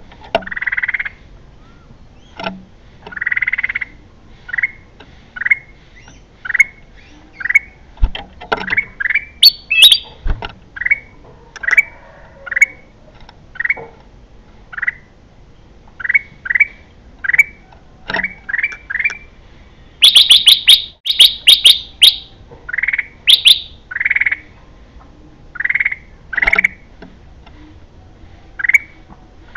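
Kutilang emas bulbul calling: short slurred chirps repeated about once a second, broken about two-thirds of the way through by a louder run of sharp, rapid notes.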